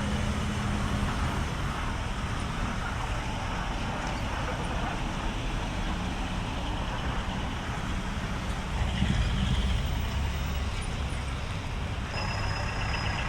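Truck engines running steadily, swelling louder about nine seconds in. A steady high tone and a fast repeating beep come in near the end.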